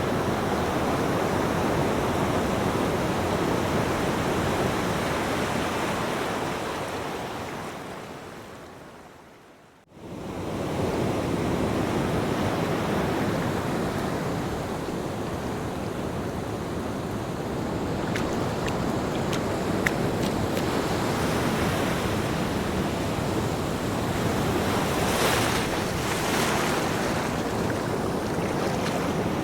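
Ocean surf: a steady wash of breaking waves that fades away to near silence about ten seconds in, then swells straight back and carries on, with a couple of louder surges near the end.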